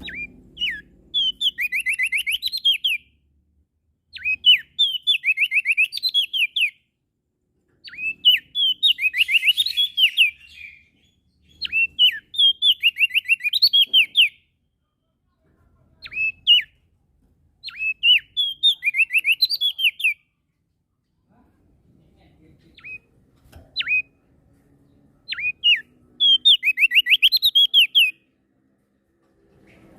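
Opior jambul (crested dark-eye), the prenjak daun of Lombok, singing loudly. It repeats bursts of quick, sharp downslurred whistled notes, each burst a second or two long with short pauses between, and a few single notes in between.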